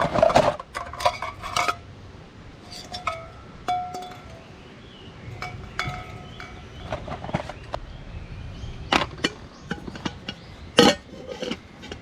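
Hard objects clinking and knocking together in irregular handling, some clinks ringing briefly like metal cookware or camp gear, with the loudest hits near the start and again near the end.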